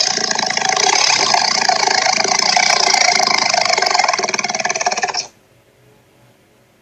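A loud, harsh rattling sound effect that cuts off suddenly about five seconds in.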